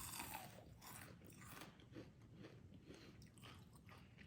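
Faint crunchy chewing of a crispy cheddar-flavoured fried chili snack, with irregular small crackles of the bites.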